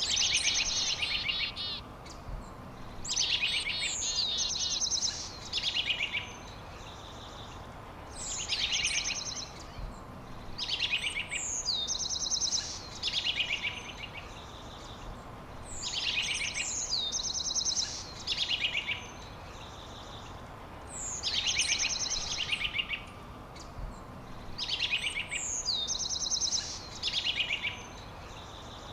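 A songbird singing the same short, high phrase over and over, every two to three seconds: a quick downward slur followed by rapid trills, over a steady background hiss.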